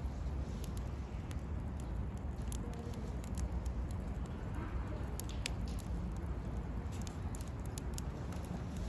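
Wood campfire crackling, with scattered sharp pops and snaps of burning firewood over a steady low rumble.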